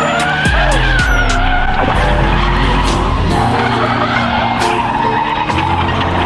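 Drift cars sliding sideways, with tyre squeal and engine noise, under background music with a steady beat.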